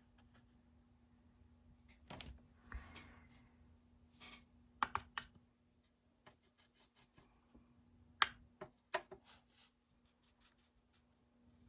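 Quiet handwork at a painting table: a brush scratching and rubbing on watercolour paper, with a few sharp clicks and taps, over a faint steady hum.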